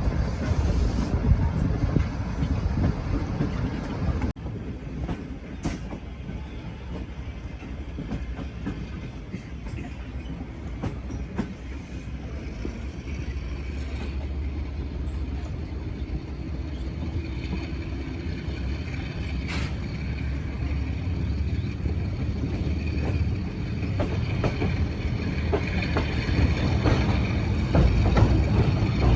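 Passenger train running on the track: a steady rumble with an occasional sharp clack from the wheels, growing louder toward the end.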